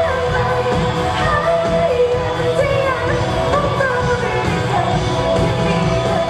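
Pop song with a lead vocal singing a gliding melody over full musical accompaniment.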